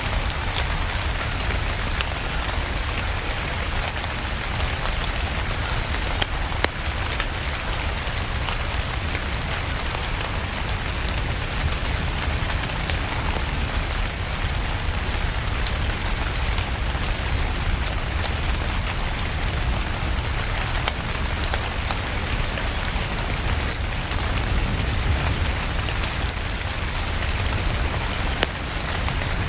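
Steady rain mixed with a fireplace, with scattered sharp crackles throughout and a low rumble underneath.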